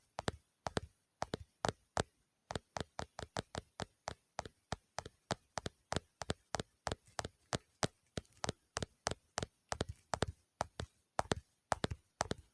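ASMR tapping: a steady run of short, sharp taps, about three to four a second, evenly paced.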